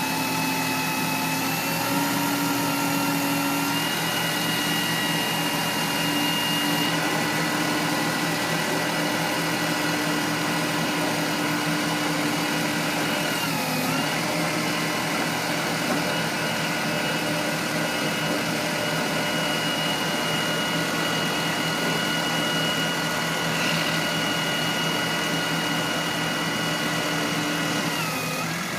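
A motor vehicle's engine running steadily, its pitch stepping up twice in the first few seconds and dipping briefly about halfway through and again near the end.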